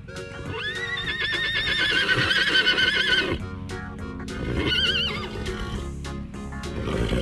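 A horse whinnying: one long whinny with a quavering pitch lasting about three seconds, then a shorter whinny about five seconds in, over background music.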